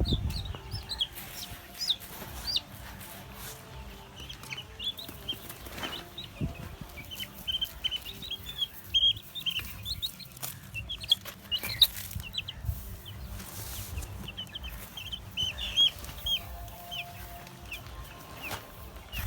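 A flock of month-old chicks peeping: many short, high cheeps overlapping, with scattered sharp clicks and knocks in between.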